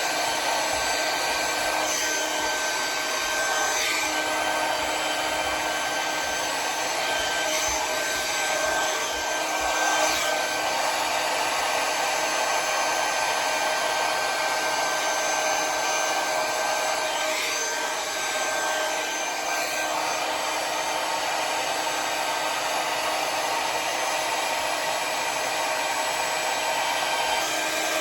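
Conair hand-held hair dryer with a nozzle attachment running steadily, a constant rush of air over a steady motor whine, while a round brush lifts a section of hair for volume.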